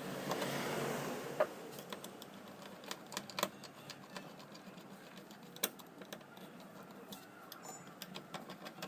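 Scattered light clicks and taps of small parts being handled as a cleaned contactor is fitted back together, after a brief rustle at the start.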